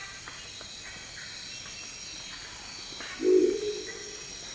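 Crested owl (Lophostrix cristata) giving one deep, gruff, croaking call about three seconds in, lasting under a second, over a steady high-pitched chorus of insects.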